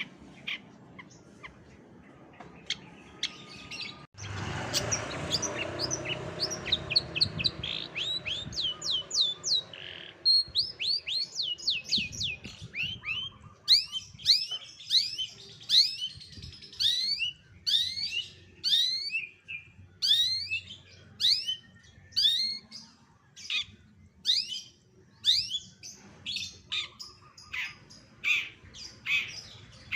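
A songbird singing rapid series of sharp, downward-sweeping chirps, several a second. The calls are sparse at first, then change abruptly about four seconds in to a dense run of chirps, with a brief hiss at the change.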